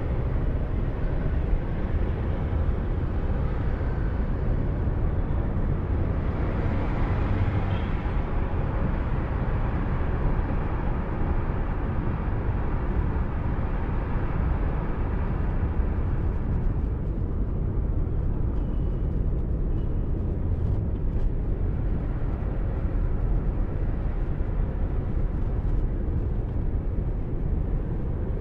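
Car driving noise picked up by a dashcam microphone: a steady low rumble of tyres and engine with road hiss above it. The hiss thins about seventeen seconds in.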